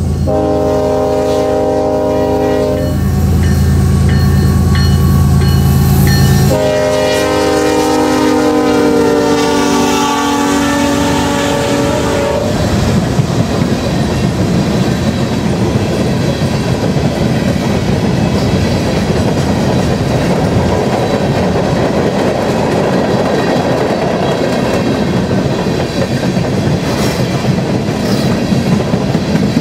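Nathan K5LLA five-chime air horn on a GE ES44AC diesel locomotive sounding two long blasts over the heavy rumble of the locomotive engines, the second blast sliding slightly down in pitch as the locomotive goes by. From about 12 seconds in, the empty coal cars rolling past with a steady clickety-clack of wheels over the rail joints.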